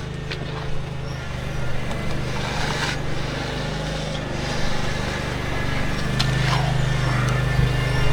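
An engine running steadily, getting louder about six seconds in, with a few short scrapes and clicks over it.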